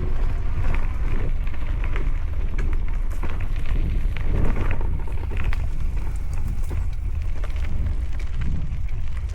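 Wind rumbling on a pole-mounted action camera's built-in microphones, with a steady crackle of many small clicks and rattles as an electric trike rides over a rough trail.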